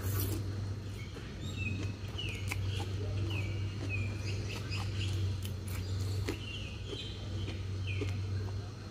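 Small birds chirping over and over, short high chirps about every second, over a steady low hum. A few light clicks sound now and then.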